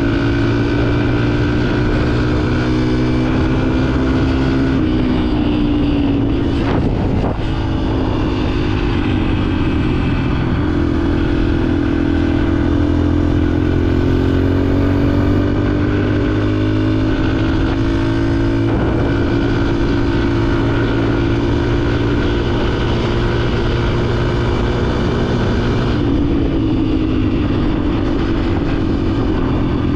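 Yamaha dirt bike engine running under way, its pitch rising and falling with the throttle and jumping at several gear changes.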